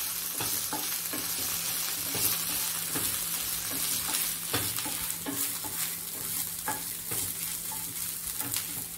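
Chopped onion, cumin seeds and ginger-garlic paste sizzling in hot ghee in a nonstick frying pan, with a wooden spatula scraping and knocking across the pan in irregular strokes as they are stirred.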